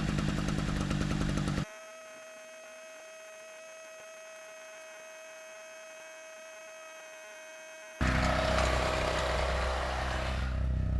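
A small engine running, cut off suddenly about a second and a half in. A faint steady hum holds for about six seconds, then the engine sound returns abruptly and louder, heavy in the low end, with a hiss over it.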